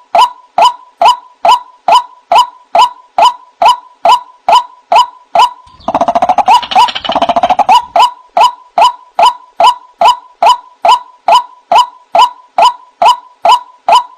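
White-breasted waterhen (ruak-ruak) giving its repeated croaking "kruak" call, about two to three notes a second, played as a bird-trapping lure. Between about six and eight seconds the calls crowd together into a denser, harsher run.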